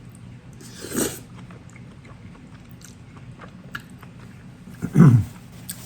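A person eating jajangmyeon noodles close to the microphone: chewing mouth sounds, with two louder brief mouth noises, one about a second in and a stronger, lower one near the end.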